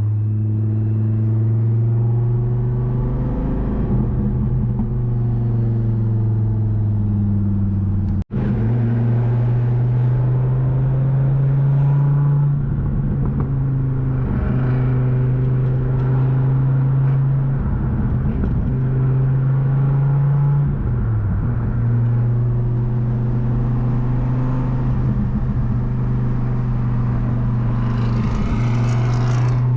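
Twin-turbo Dodge Viper GTS V10 engine running at a steady cruise, a low even drone that steps up and down in pitch a few times as the car is driven. There is a momentary cut in the sound about eight seconds in.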